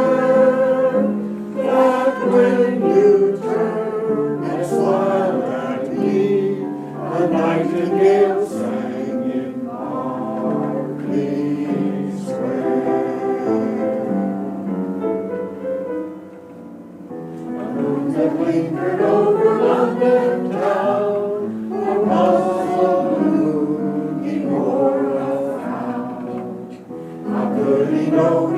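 Amateur mixed choir singing a song in several parts, with a brief dip in the singing about two-thirds of the way through.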